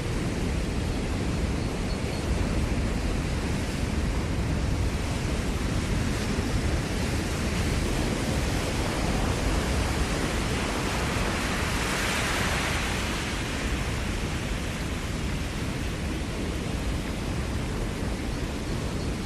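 Ocean surf on a Maui shoreline: a continuous wash of waves with a deep rumble, one wave swelling louder and hissing about twelve seconds in, then easing off.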